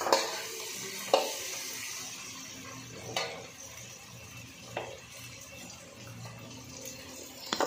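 Chilli chicken sizzling in a frying pan as it is stirred, with a steady hiss and a spatula knocking against the pan about five times.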